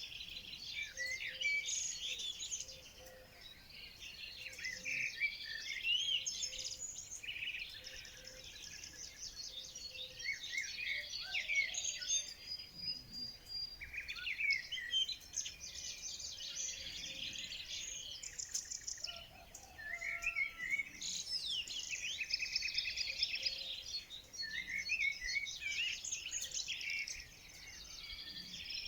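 Several songbirds singing and chirping at once, a dense chorus of quick trills, chirps and whistled notes that thins briefly now and then.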